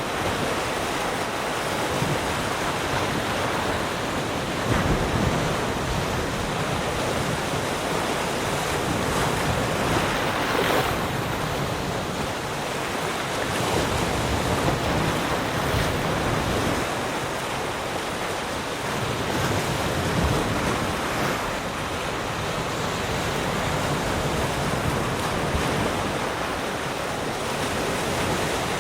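Ocean waves breaking and washing on a shore, a continuous surf rush that swells and eases, with stronger breakers about five and ten seconds in.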